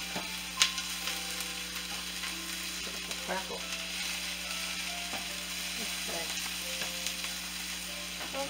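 Chopped onions and green bell peppers sizzling steadily in a frying pan as they are sautéed and stirred with a wooden spoon. There are a few sharp knocks, the loudest less than a second in.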